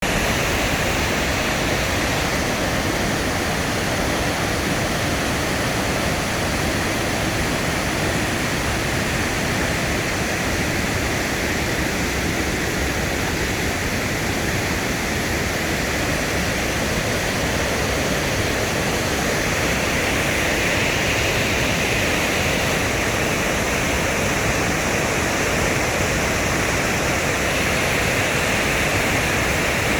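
Waterfall: falling water rushing in a steady, even wash of noise that does not let up.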